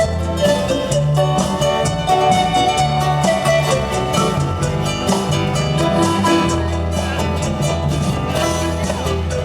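Live band music played over a street sound system, with a steady beat, a sustained bass line and melodic instrument lines.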